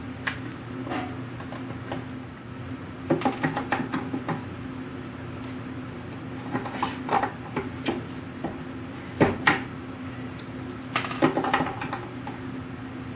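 Several clusters of light knocks and clatter from parts of a wooden machinist chest being handled on the bench, over a steady low hum.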